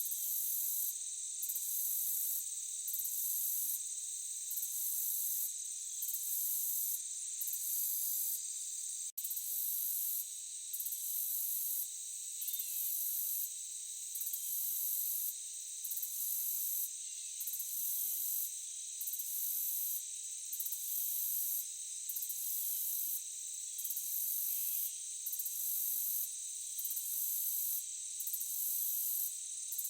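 Dense chorus of crickets and other insects in a forest soundscape: steady high-pitched trilling, with the highest part pulsing about once a second. There is a brief dropout about nine seconds in.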